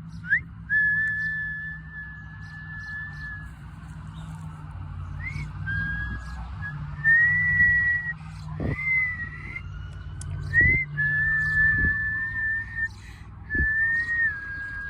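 High whistling tones in a run of long held notes, each starting with a quick upward slide, with a few pitch glides between them, over a low rumble and a few dull thumps.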